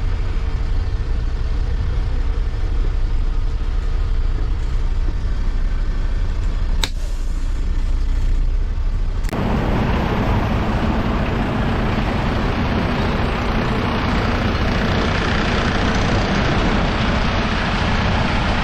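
Western Star dump truck running, a steady low engine rumble, with a single sharp click about seven seconds in. About nine seconds in, a loud steady rushing noise comes in suddenly and carries on over the engine.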